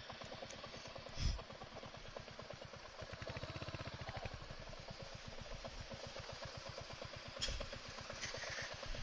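Motorcycle engine running at low revs with an even, steady pulsing. Two louder knocks come about a second in and again near the end.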